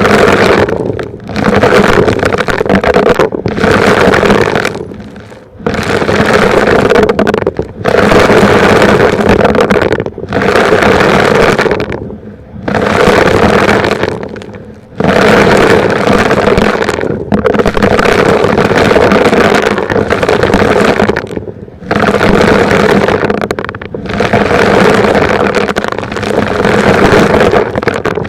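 Vacuum cleaner running loud as it picks up rocks, in surges of one to three seconds with brief dips between.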